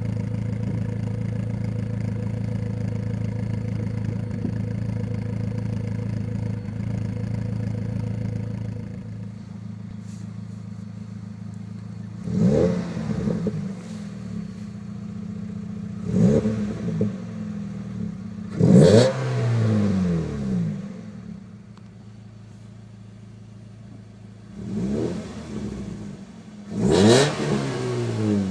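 A 2002 Nissan Sentra's 1.8 L QG18DE four-cylinder engine, breathing through an HKS Sport cat-back exhaust and 4-2-1 header, runs steadily and then settles to a quieter idle about nine seconds in. It is then revved five times in quick blips, each rising and falling back to idle.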